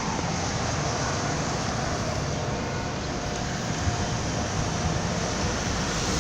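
A car running, an even, steady rush of noise with no breaks.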